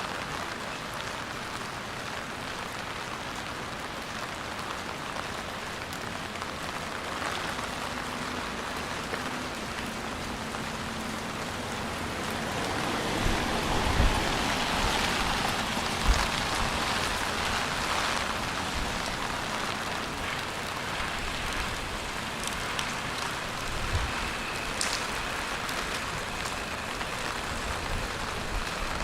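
Steady rain falling and spattering on wet surfaces, an even hiss that swells louder for several seconds in the middle, with a few short dull thumps.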